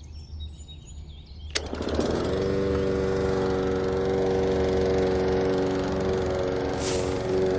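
Small electric motor of a homemade model chaff cutter switched on with a click about a second and a half in, spinning up within half a second and then running steadily with an even hum. A short hiss comes in near the end.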